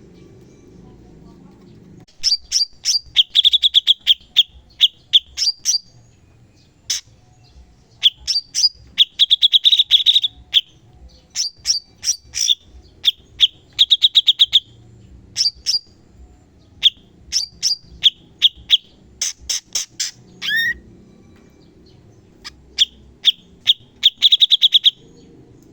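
Cucak cungkok singing: bursts of rapid, sharp, high repeated notes ('tembakan'), in several phrases separated by short pauses, with one falling note near the end of a phrase about two-thirds of the way through.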